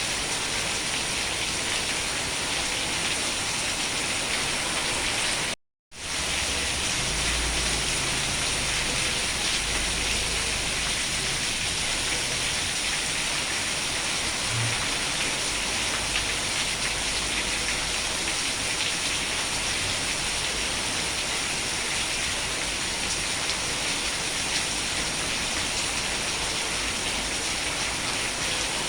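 Steady rain falling, an even hiss of drops on a surface, broken once by a sudden fraction-of-a-second dropout to silence about six seconds in, after which the rain resumes with a faint low rumble underneath.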